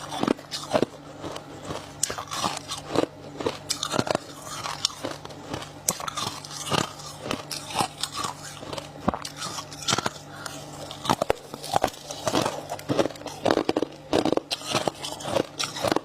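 Close-up biting and chewing of freezer frost ice sticks: many sharp, irregular crunches, several a second, over a faint steady hum.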